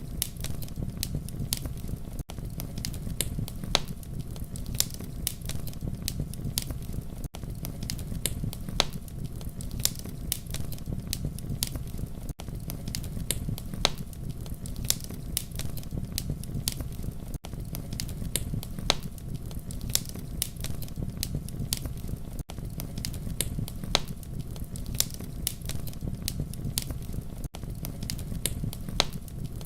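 Wood fire crackling steadily, with frequent sharp pops over a low rumble of the flames. It is a short loop that drops out briefly about every five seconds.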